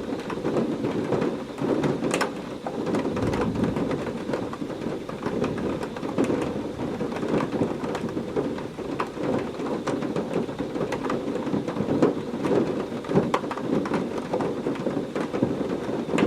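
Heavy rain falling steadily: a dense wash of rain noise with many sharp drop and splash ticks scattered all through it.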